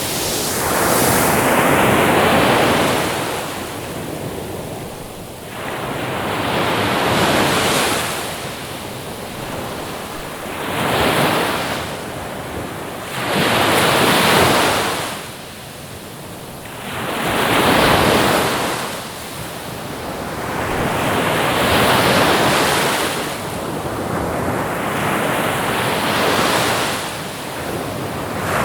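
Ocean waves breaking on a shore, each surge of surf swelling into a loud hiss and draining away, about one every two to four seconds.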